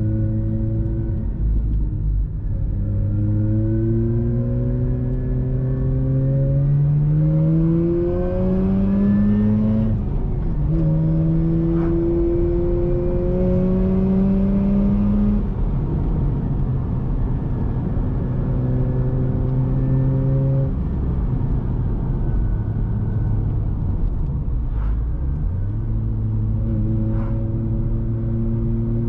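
Mazda RX-8's two-rotor Wankel rotary engine through a Re Amemiya aftermarket exhaust, accelerating with the pitch climbing through the revs. The pitch drops at gear changes about 2, 10 and 15 seconds in, holds steady for a few seconds, falls as it eases off, then climbs again near the end.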